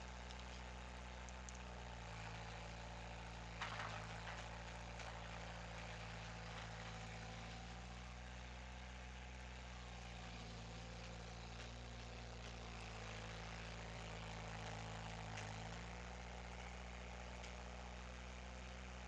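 Skid steer engine running steadily, its note shifting about two seconds in and again near the end. A single sharp crack comes about three and a half seconds in.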